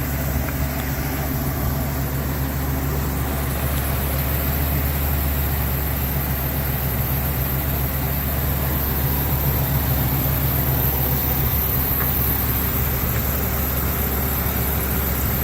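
Ford E-450 box truck's 6.8-litre V10 gasoline engine idling steadily.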